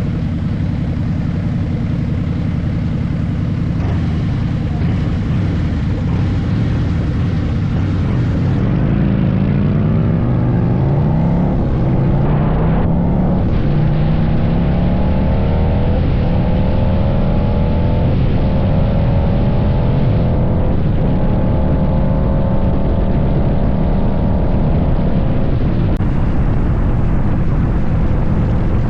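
Harley-Davidson V-twin motorcycle engine running while riding. About nine seconds in it accelerates, its pitch rising in steps through the gears, then it settles into a steady cruise.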